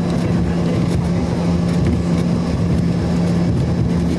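Steady cabin noise from the Embraer 145's rear-mounted Rolls-Royce AE3007 turbofan engines, heard inside the passenger cabin as an even rumble with a constant low hum.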